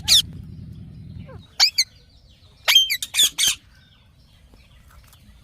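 Indian ringneck parakeet giving short, harsh, high-pitched screeches: one at the start, another about a second and a half in, then a quick run of four around three seconds in.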